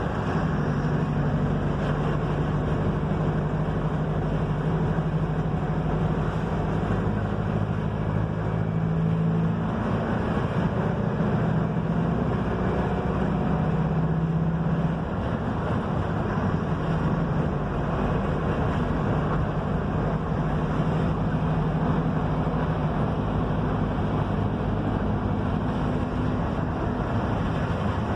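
Mercedes-Benz OF-1721 bus engine running under way, with steady road and tyre rush. The engine note changes about a third of the way in and falls back after about halfway, leaving mostly road noise.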